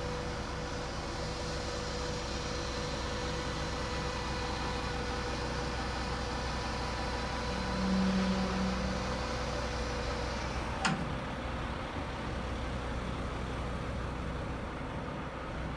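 A vehicle engine idling steadily, with a low rumble and a faint steady whine. About eight seconds in, a louder low hum rises for under two seconds, and a single sharp click follows a little later.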